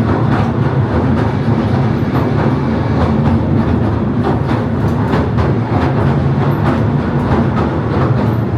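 Southend Pier railway train running along the rails: a steady, loud rumble and hum with frequent clicking of the wheels over the rail joints.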